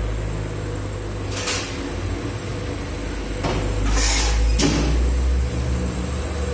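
Air-conditioner parts press machine running with a steady low hum, and four short hisses like compressed air being let out, the longest and loudest about four seconds in.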